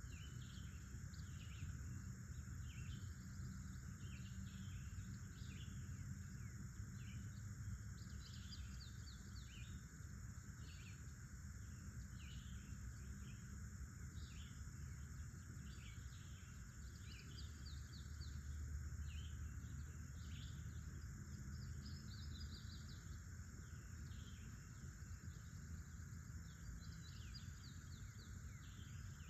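Forest ambience: many birds chirping and calling in short, repeated notes, over a steady insect drone and a low background rumble.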